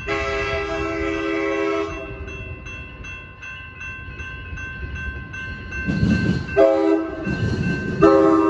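Railroad crossing bell ringing in rapid, even strikes as an Amtrak San Joaquins train approaches, its horn sounding the grade-crossing signal: a long blast, a pause, then a short blast and another long one near the end. The train's rumble rises under the horn in the last few seconds.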